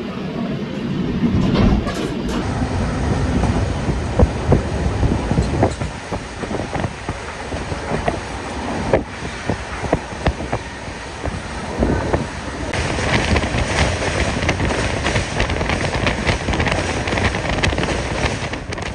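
Passenger train running on rails, heard from aboard: a steady rumble of wheels with irregular clacks and knocks over the track. A brighter rushing hiss joins about two-thirds in.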